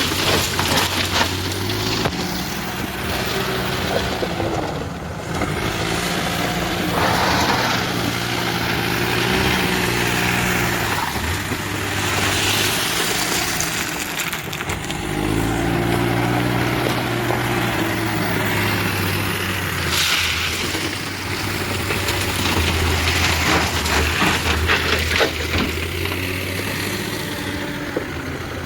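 Mahindra backhoe loader's diesel engine running under load, its pitch rising and falling as it works, with several rushes of scraping and crashing noise from the loading.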